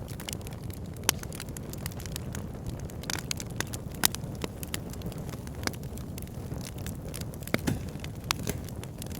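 Wood fire burning in a log burner, with a steady low rumble of flame and frequent sharp crackles and pops from the burning logs.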